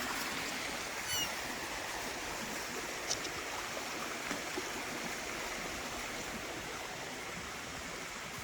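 Steady rushing of flowing water, like a forest stream, with a short descending bird call about a second in.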